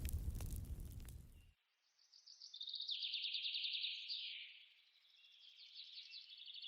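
Songbird singing: quick, rapidly repeated chirping phrases, one with a falling sweep, over an otherwise silent background. Before it, about a second and a half of outdoor noise with a few clicks cuts off suddenly.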